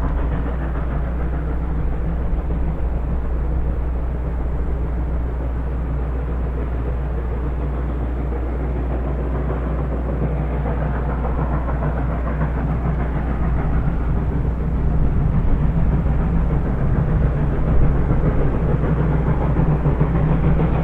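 Steam-hauled passenger train running, a steady rumble that grows louder over the last few seconds.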